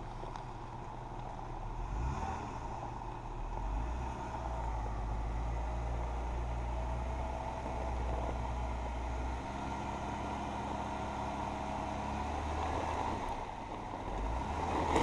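Jeep Wrangler engine running at low speed, its low note swelling and easing several times with the throttle as the Jeep crawls further to flex out its front axle.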